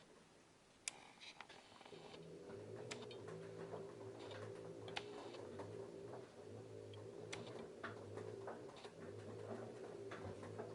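LG F10A8HDS5 front-loading washing machine tumbling a load of jeans: the drum's motor hums in on-and-off stretches, starting again about a second in after a short pause, while hard buttons and rivets tick irregularly against the drum.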